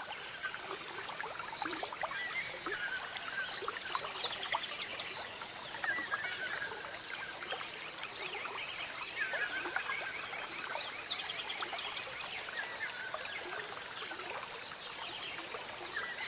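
Small birds chirping: a short call repeated every few seconds and many quick, high, falling chirps, over a steady high-pitched hiss.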